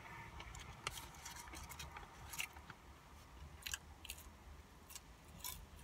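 Faint close-up chewing of a fried chicken sandwich, with scattered small irregular mouth clicks and crackles.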